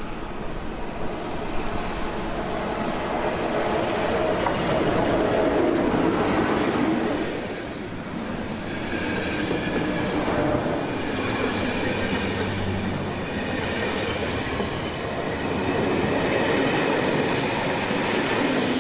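Passenger train hauled by a MÁV V43 (class 431) electric locomotive rolling past close by, its wheels clattering over the rails with a faint wheel squeal. The noise builds as the locomotive nears and stays loud while the coaches pass.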